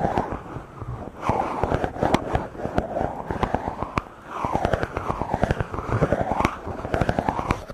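Microphone being rubbed and stroked directly, in repeated swishing strokes of about a second each, full of dense crackling and scratching.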